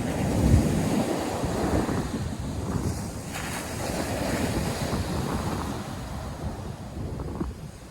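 North Sea surf washing onto the beach, with wind buffeting the microphone in gusts; loudest about half a second in and easing off near the end.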